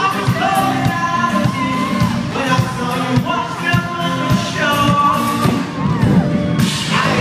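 Live pop-rock band playing with a male lead singer, recorded from among the audience.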